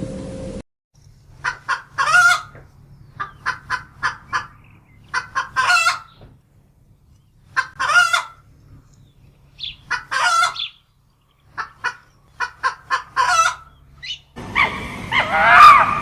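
Chicken clucking in repeated runs of short clucks, each run ending in a longer drawn-out call.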